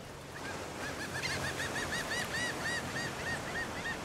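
A bird calling in a quick series of short rising-and-falling notes, about five a second, over a steady hiss.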